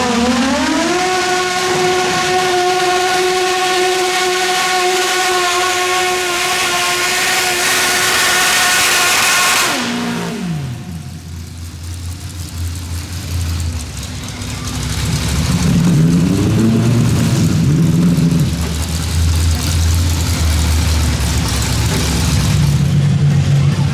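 Pulling garden tractor engine at full throttle under load: its pitch sags, recovers and holds high and steady, then cuts off suddenly about ten seconds in. Afterwards a lower engine sound runs on, rising in pitch once briefly.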